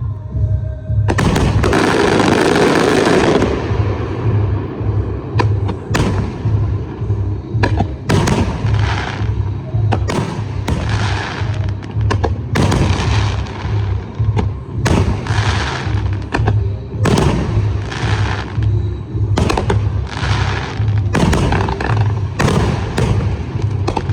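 Aerial fireworks going off in quick succession: sharp bangs and crackling bursts every second or two, with a long dense burst about a second in. Music with a steady pulsing bass beat plays underneath.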